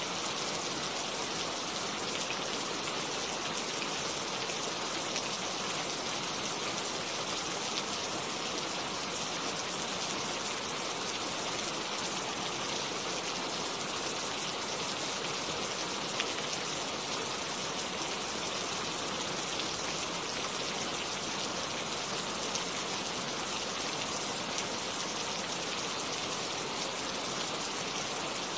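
Steady rain falling: an even hiss of many drops, with a few slightly louder single drops here and there.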